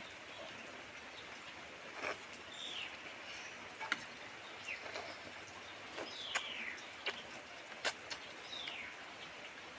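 Birds calling, a short falling chirp repeated every second or two, over a steady background hiss, with a few sharp clicks along the way.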